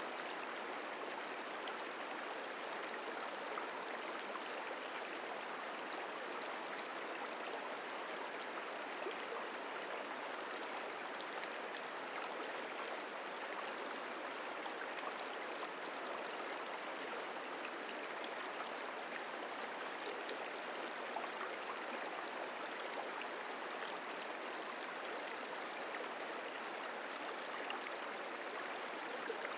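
The Merced River rushing steadily over its bed, an even flowing-water sound with faint scattered splashes.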